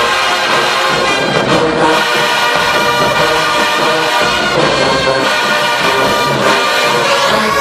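HBCU marching band playing loudly, its brass section of trombones and trumpets sounding full, sustained chords.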